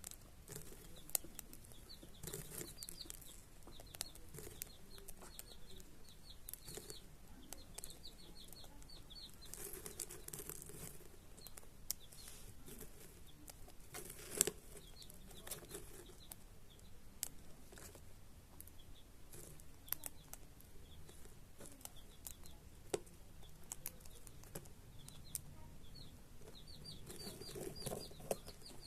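Cockatiels chirping softly in runs of quick, short, high notes, with scattered sharp clicks and taps; the chirping thickens near the end.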